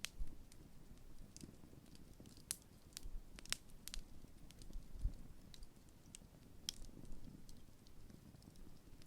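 Wood campfire burning, with scattered sharp crackles and pops of burning wood, about a dozen irregularly spaced, over a faint low rumble.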